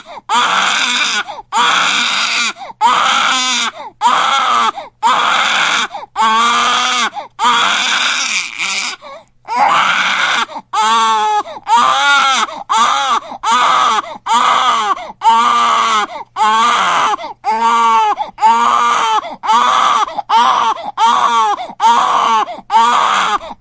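Baby crying hard and loud: a run of wailing cries, about one a second, each rising and falling in pitch, with a brief catch of breath about nine seconds in before the cries start again.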